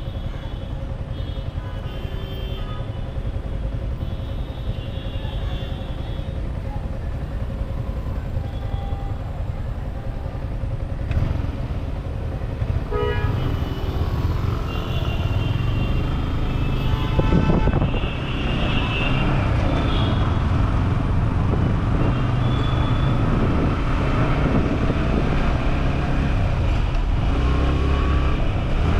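City traffic heard from a moving motorcycle, a Yamaha R15 V4: the engine runs under steady road noise. Vehicle horns honk several times, and the engine note climbs gradually in the second half.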